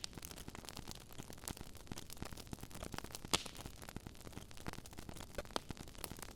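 Wood fire crackling in a fireplace: faint, irregular pops and snaps, with one louder pop a little past the middle.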